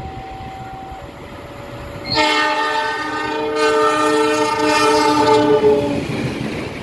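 Train horn blowing one long chord of several notes for about four seconds, starting a couple of seconds in, over the rumble of a train passing through the station.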